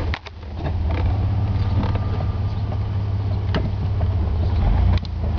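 1994 Oldsmobile Bravada's 4.3-litre V6 engine idling steadily, with a few sharp clicks and a brief dip in loudness just after the start.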